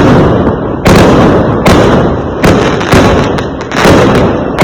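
Fireworks going off in quick succession: about five loud bangs, each followed by a rumbling decay that overlaps the next.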